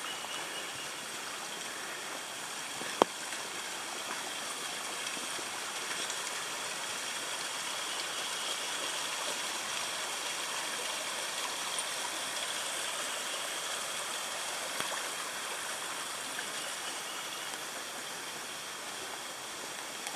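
A small woodland stream flowing over rocks, a steady rushing and babbling. One sharp click about three seconds in.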